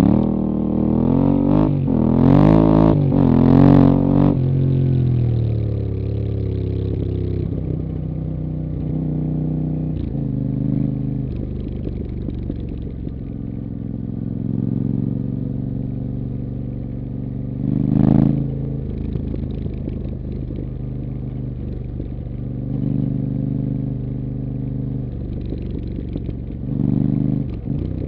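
Yamaha Ténéré 700's 689 cc parallel-twin engine, breathing through a Camel ADV rally-bend exhaust on the stock headers. It revs up and down several times in quick succession, then runs at a steadier pitch with a few brief throttle blips.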